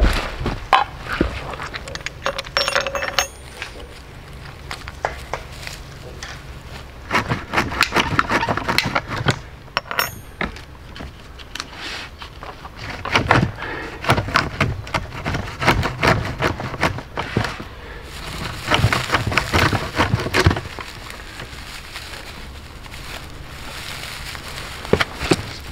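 Irregular clusters of knocks, clicks and clinks with rustling, the sound of hard objects being handled and set down by hand.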